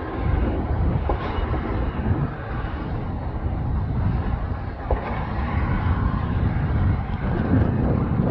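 Steady low rumbling noise with two dull thumps about four seconds apart: a heavy drop weight striking old runway concrete to break it up.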